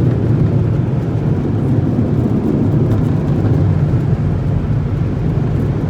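Steady, loud, low rushing rumble of automatic car wash equipment, heard from inside the car's cabin.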